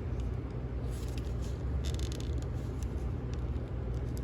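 Plastic action figure being handled, with faint plastic clicks and rattles clustered between about one and two and a half seconds in, over a steady low background hum.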